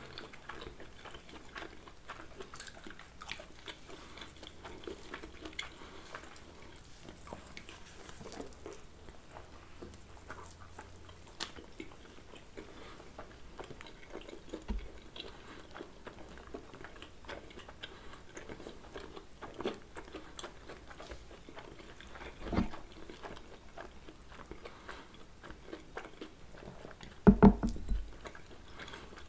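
Close-miked chewing of pizza by two people: many small mouth clicks and smacks. A few louder low thumps come through, the loudest near the end.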